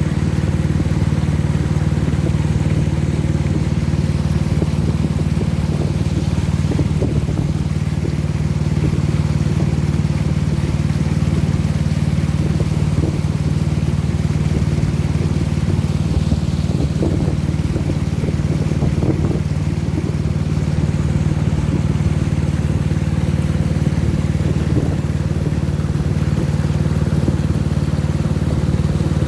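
Motorboat engine running steadily at a constant speed, with an even low pitch that does not rise or fall.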